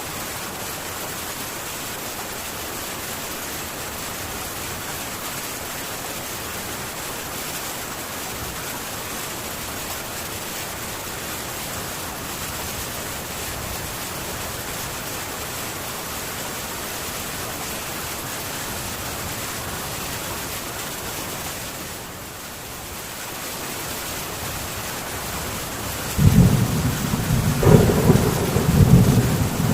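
Heavy rain drumming steadily on a metal tin roof. About 26 seconds in, a loud low rumble of thunder breaks in and rolls on to the end.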